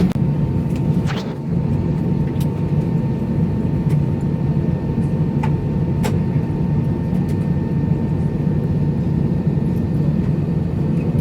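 Steady low hum of an Airbus A321 cabin on the ground before departure, with a faint thin high tone and a few sharp clicks scattered through the first half.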